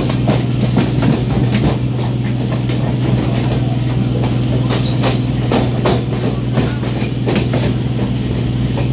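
Passenger train coaches rolling past close by, their wheels clicking and knocking irregularly over the rail joints, over a steady low drone.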